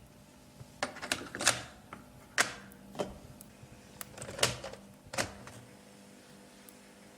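A run of sharp, irregular clicks and knocks, about eight in four seconds, then quiet.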